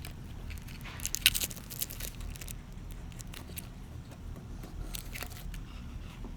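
Light crinkling and clicking from handling the new thermostat's packaging and wire-label sheet. There is a cluster of sharp crackles about a second in and a few more clicks later.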